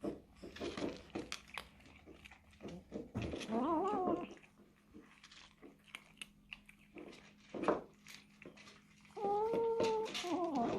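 A cat eating with a wet, clicking chew and making its own voiced noises between mouthfuls: a short wavering call about three and a half seconds in and a longer one near the end. This is the noise it makes while it eats.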